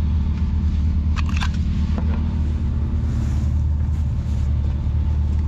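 Side-by-side UTV engine running steadily as a low rumble, with a few brief knocks or rattles about a second in.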